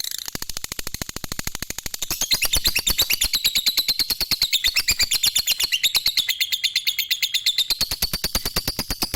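Lovebird singing a long ngekek: an unbroken, rapid chatter of sharp high notes, several a second, growing louder about two seconds in.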